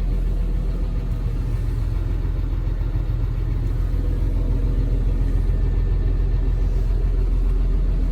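John Deere 6920 tractor's six-cylinder diesel engine idling with a steady low rumble.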